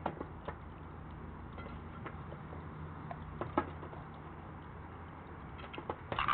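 Irregular light taps and clicks, typical of Northwestern crows pecking and stepping about at a feeder, over a steady low hum. A louder cluster of taps comes near the end.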